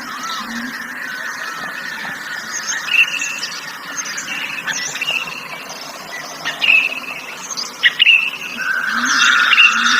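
Several wild birds chirping and whistling, with a few sharp, louder calls, over a steady insect drone of crickets that swells near the end.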